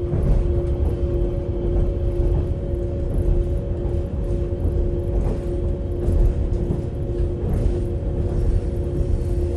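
Passenger train running, heard from inside the carriage: a steady rumble with a constant whine and a few faint knocks from the track.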